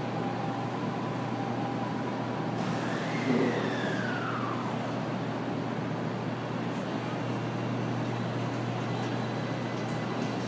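A 700 series Shinkansen train starting to pull away: a steady low electrical hum and rushing noise, with a tone that slides down in pitch about three seconds in.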